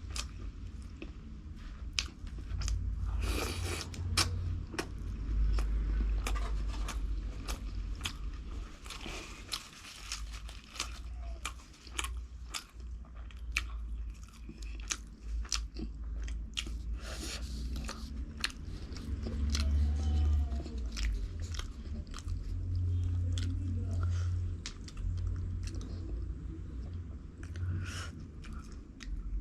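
A person eating close to the microphone: a steady run of bites and chewing with crisp, crunching clicks throughout.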